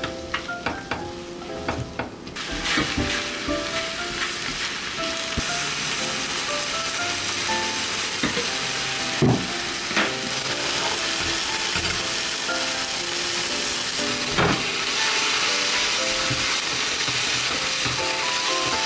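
Food frying in oil in a pan: a steady sizzle that swells in a couple of seconds in, with a few sharp knocks of a utensil against the pan as it is stirred.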